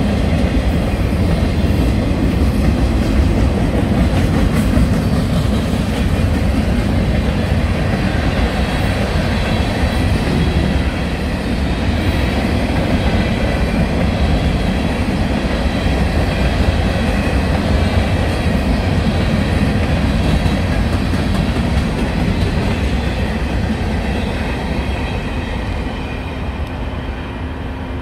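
Freight train cars rolling past close by: a steady rumble of steel wheels on rail. It eases off over the last several seconds as the end of the train goes by.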